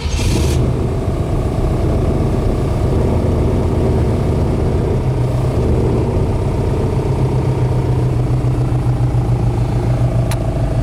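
Chevrolet ZZ3 350 crate V8 with fuel injection and dual exhaust, heard from inside the car. It comes in abruptly with a short hiss at the start, then runs steadily.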